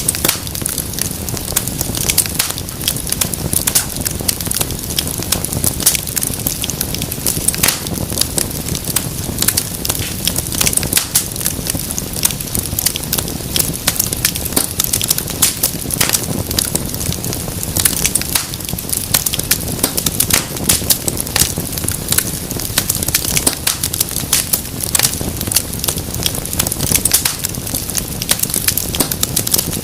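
Wood fire burning in a fireplace, with dense, irregular crackles and pops over a steady low rumble of flames.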